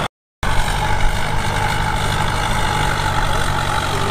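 Heavy earth-moving equipment's diesel engine running steadily. The sound drops out completely for about a third of a second just after the start.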